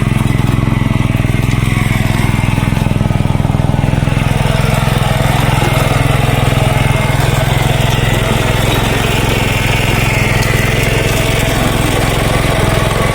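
Small walk-behind tractor (power tiller) engine running steadily under load while ploughing hard, dry ground.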